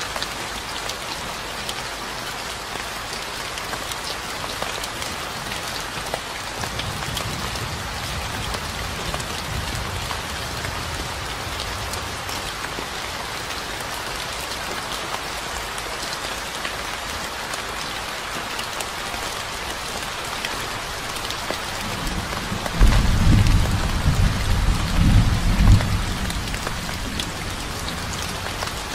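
Steady rain falling with an even hiss. A soft low rumble of thunder comes about seven seconds in, and a louder roll of thunder lasts about three seconds, starting some twenty-three seconds in.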